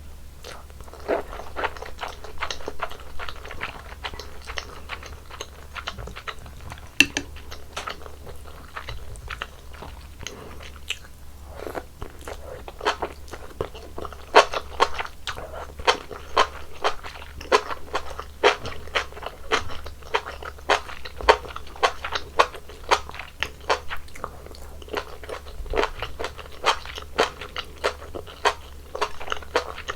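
Close-miked chewing of malatang, with crisp, wet crunches as the pieces are bitten, in a steady rhythm of about two chews a second.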